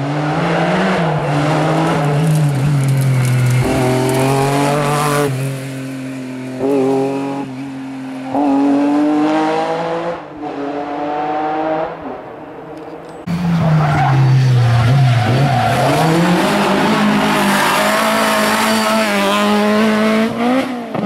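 Historic rally car engines at full throttle, pitch climbing through each gear and dropping at every shift, over two or more separate passes; a new car starts abruptly about two-thirds of the way through.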